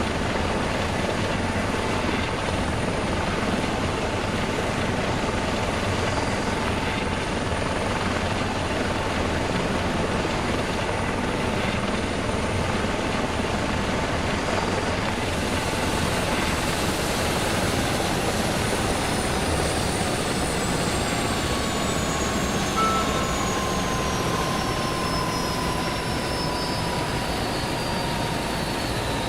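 Eurocopter EC135P2+ twin-turbine helicopter running with a steady, loud rush of turbine and rotor noise. About halfway through, a high turbine whine starts falling steadily in pitch as an engine spools down at shutdown.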